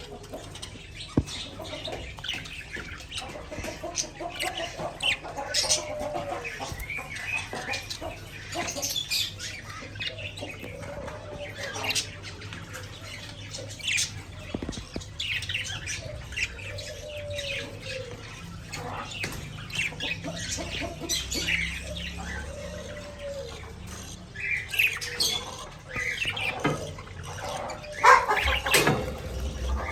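Pet budgerigars chirping and chattering in short, warbling calls, with scattered sharp clicks.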